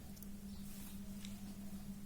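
Quiet room with a steady low hum and a couple of faint clicks; no bird call.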